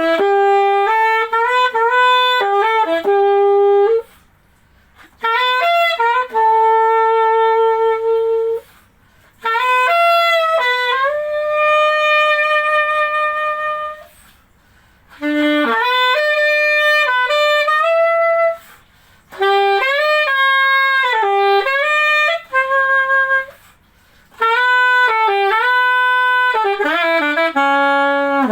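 Chateau VCH-A920 MZ saxophone played solo, unaccompanied and without effects: melodic phrases of quick notes ending on held notes, with short breaths between phrases.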